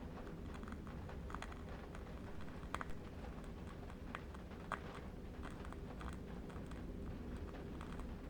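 Faint ambience of a steady low wind rumble with soft, irregular crackles and ticks of a burning candle wick scattered through it.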